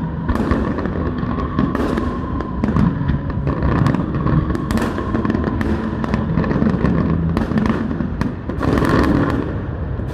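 New Year fireworks display: a dense run of sharp bangs and crackling pops over a continuous low rumble, with a steady tone running underneath.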